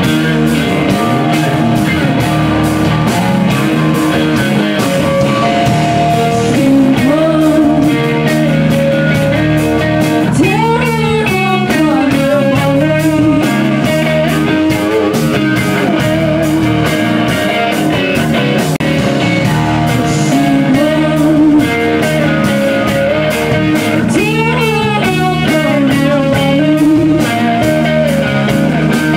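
Blues-rock band playing an instrumental stretch led by electric guitar, with steady drum hits underneath. The guitar bends and wails notes sharply about a third of the way in and again near the end.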